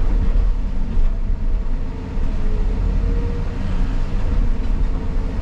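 Caterpillar 323 excavator's diesel engine running steadily, a heavy low rumble with a faint whine above it that shifts slightly in pitch.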